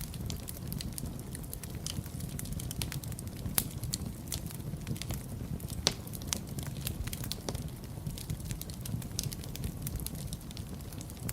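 Wood fire in a fireplace crackling, with many irregular sharp pops and snaps over a steady low rumble of burning, two pops standing out louder about three and a half and six seconds in.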